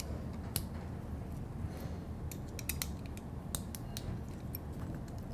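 Allen key turning out the small steel screws that hold the sight glass on a Dixon Bayco API adapter: scattered light metallic clicks and creaks at an uneven pace.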